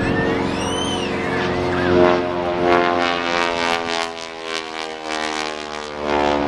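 Propeller engine of an aerobatic plane coming out of a steep dive and passing, its pitch sliding down as it goes by, then steadying near the end.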